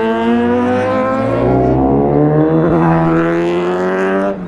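Motorcycle engines running close by, one holding a steady pitch that climbs slowly while a second engine's pitch rises and falls in the middle; the sound dips briefly near the end.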